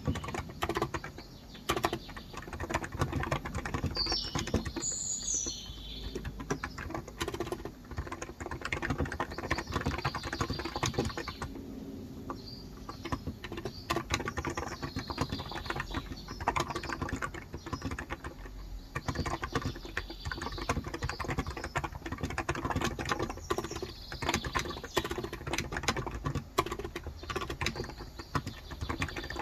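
Steady, rapid typing on a Cox Endeavor tenkeyless keyboard with 35 g electro-capacitive (Topre-style) switches, with a couple of short pauses. A bird chirps high-pitched about four to six seconds in.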